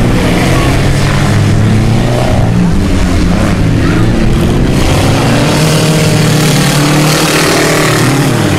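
Several car engines racing together, loud and continuous, their pitches rising and falling as the drivers rev and lift.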